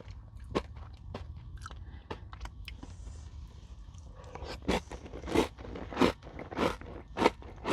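Close-up chewing of a crunchy Nature Valley granola bar coated in yogurt and whipped cream: small scattered crunches at first, then from about four and a half seconds in a steady run of loud crunches, about three every two seconds.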